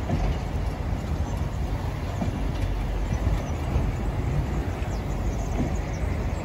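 Loaded flat car-carrier freight wagons rolling past on the rails, a steady low rumble of wheels and running gear.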